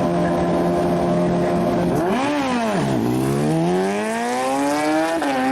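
High-revving engine held steady, blipped once about two seconds in, then pulling hard with pitch climbing steadily until a quick upshift drops the revs about five seconds in.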